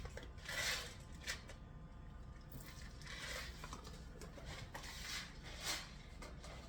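Black peppercorns being ground by hand: a few short gritty scraping bursts with pauses between them.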